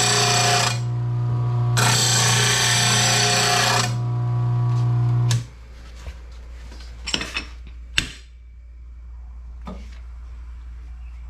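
Electric mower-blade sharpener running with a steady hum, its wheel grinding a steel mower blade in two passes with a short break between. The machine cuts off about five seconds in, followed by a few sharp knocks of the blade being handled.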